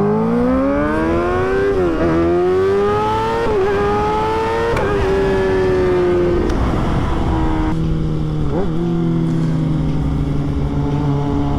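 Motorcycle engine accelerating hard through the gears, its pitch climbing and dropping back at two quick upshifts. Near the middle it eases off, the pitch sliding down slowly and settling into a steady cruise.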